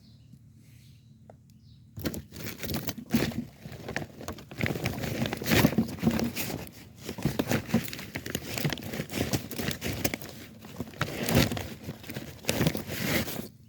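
Close, irregular crinkling and rustling, like material being crumpled or handled, full of small sharp clicks. It starts abruptly about two seconds in and stops shortly before the end.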